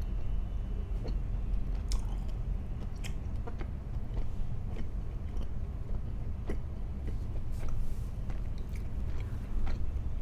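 Close-miked eating: a person biting and chewing food, with scattered crisp clicks and crunches. A steady low hum runs underneath.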